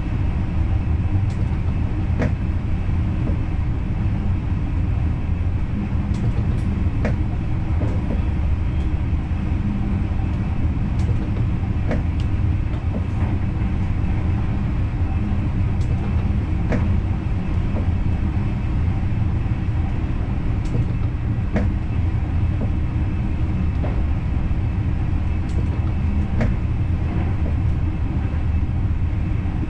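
Dutch NS Intercity train running, heard from the driver's cab: a steady low rumble with sharp clicks every second or two.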